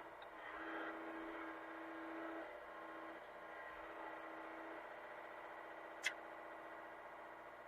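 Hitachi mini excavator's diesel engine running steadily, with one sharp knock about six seconds in.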